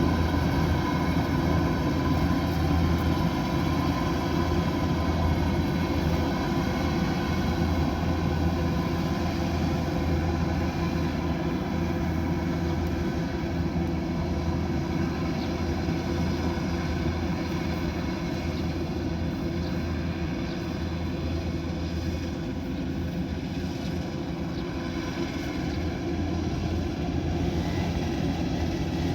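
Kubota DC108X combine harvester running steadily, its diesel engine drone holding at one pitch with no revving.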